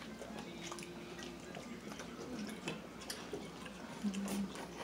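Faint eating sounds of people chewing fried chicken: scattered small clicks and mouth noises, with a brief low hum of a voice about four seconds in.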